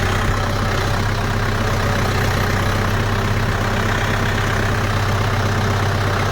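Kubota two-wheel-drive tractor's diesel engine running steadily as the tractor reverses up a slight rise with the differential lock engaged.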